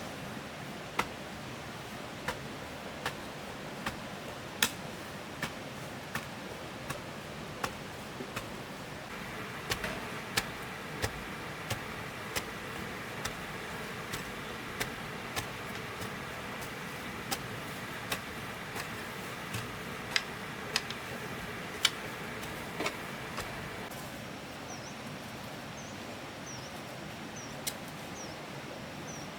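Sharp knocks or clicks at an uneven pace of roughly one a second over a steady rustling haze, with a thin ringing hum in the middle stretch. Near the end a small bird chirps several times in a row.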